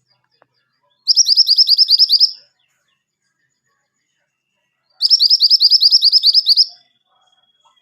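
Yellow kemantenan songbird singing: two fast trilled phrases, each a rapid run of about a dozen sharp, high repeated notes lasting around a second and a half, one about a second in and another about five seconds in.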